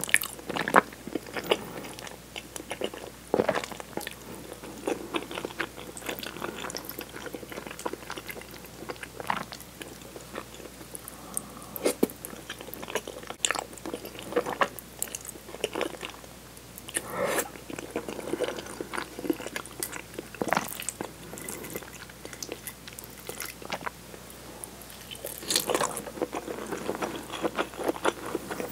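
Close-miked chewing and slurping of tomato cream spaghetti: wet mouth clicks and smacks, with busier bursts around the middle and near the end.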